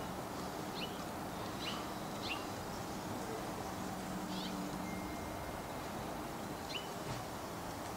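A bird calling outdoors: about six short, thin chirps at uneven intervals, each a quick slur in pitch, over a steady background hiss.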